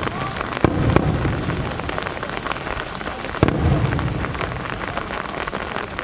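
Aerial firework shells bursting over steady rain: two sharp bangs about a second in and a heavier boom at about three and a half seconds, each trailing into a low rolling rumble.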